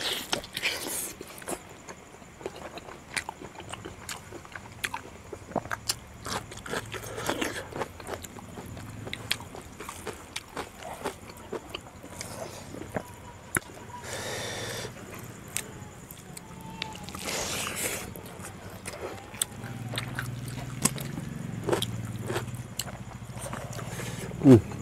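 Close-miked mukbang eating sounds of pork curry and rice eaten by hand: wet chewing and biting with frequent lip smacks and mouth clicks, and two brief slurping stretches about midway.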